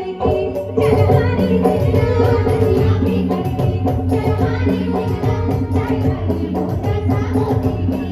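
Chhattisgarhi jawara folk song music with a steady, fast drum and rattle beat and a melody line over it.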